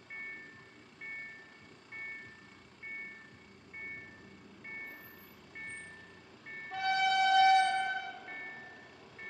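Level crossing warning bell ringing, an electronic two-tone ding repeating a little faster than once a second. A train horn sounds once for about a second and a half, about two-thirds of the way through, louder than the bell.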